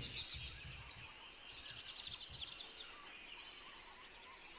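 Faint birds chirping in the background, with a quick trill of rapid repeated notes around the middle.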